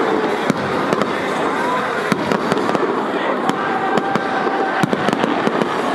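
Fireworks going off in a dense run of rapid, irregular pops and crackles, with crowd voices beneath.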